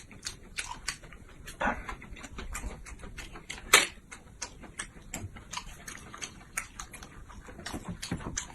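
Eating at a table: a steady run of small clicks and taps of chopsticks and tableware, with one sharper knock a little under four seconds in.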